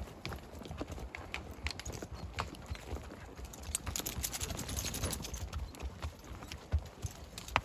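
Horse hooves clopping at a walk, an irregular series of knocks, with a brief rustle about halfway through.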